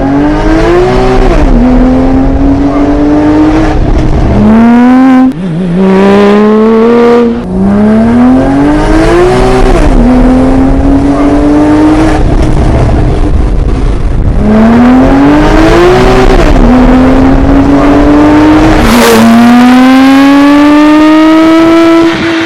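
Porsche 997 GT2's twin-turbo flat-six, breathing through a Kline-Innovation Inconel exhaust, accelerating hard through the gears. The pitch climbs and drops sharply at each upshift, over several pulls in a row.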